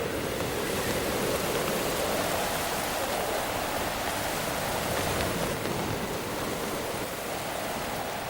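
Storm noise: gale-force wind with rushing sea water, a steady, dense hiss without a break.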